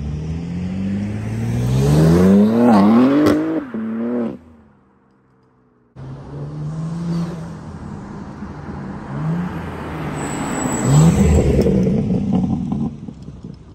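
BMW M3 Competition's S58 twin-turbo straight-six with a MAD single midpipe, accelerating hard, its exhaust note rising in pitch over about three seconds. The sound cuts out briefly about four seconds in, then the engine pulls again in several shorter rising bursts, the loudest near the end.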